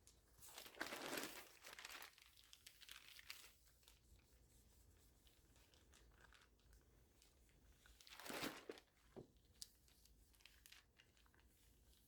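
Faint crinkling and rustling of a thin plastic sheet rubbed by fingers along the edge of a clay slab, smoothing it. It comes in two spells, the first starting about half a second in and lasting about three seconds, the second briefly around eight seconds in.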